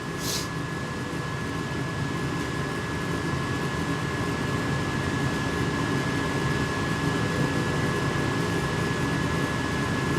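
Trane 80% gas furnace's draft inducer motor running steadily with a thin constant whine, during the pre-purge before the gas valve opens. A short hiss sounds just after the start.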